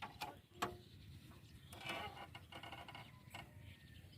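A few faint metallic clicks and knocks, two sharp ones within the first second, from a diesel power tiller's gear lever and gearbox being worked with the engine off. The gear is stuck engaged and the engine will not start.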